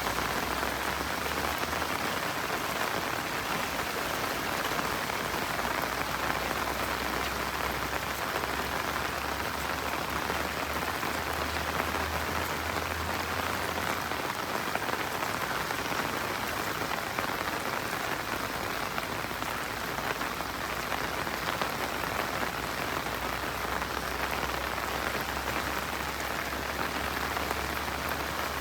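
Steady rain falling on surfaces, an even patter with many fine drops, and a low rumble underneath that comes and goes.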